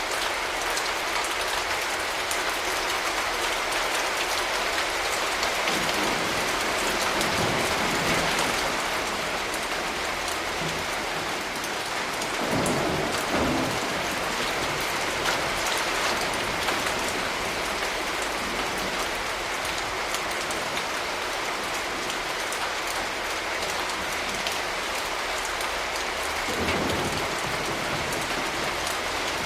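Steady rain hissing and pattering, with low thunder rumbling three times: about six seconds in, again around the middle, and near the end.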